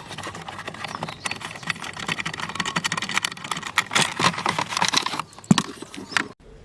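Quick irregular clicking and clinking of hand tools and small metal parts while bolts and trim are taken out of a car's dashboard, with a few sharper knocks near the end before it stops abruptly.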